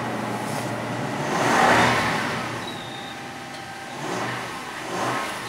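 2005 Toyota Tundra engine cold-starting at about 5 °F: it catches with a loud rev flare about a second and a half in, then settles to a fast idle with squeaky belts whistling steadily and two brief surges near the end. It struggled a little to start.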